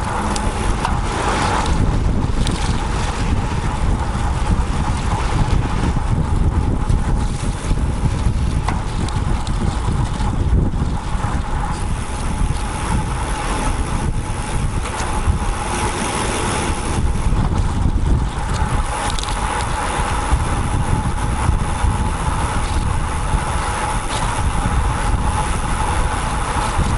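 Wind rushing over a bicycle-mounted action camera's microphone while riding a road bike, with steady rumbling road noise and a faint steady whine.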